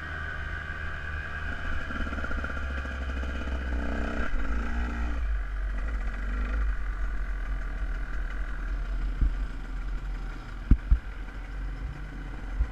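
Dirt bike engine running, over a steady low rumble, with a few sharp knocks in the last few seconds.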